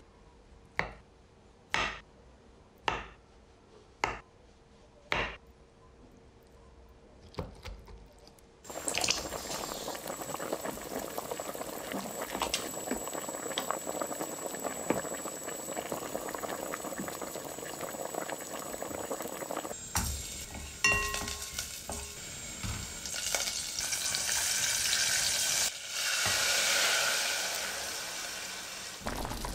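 A handful of sharp knocks about a second apart, then food frying in a pan, sizzling and being stirred, growing louder near the end.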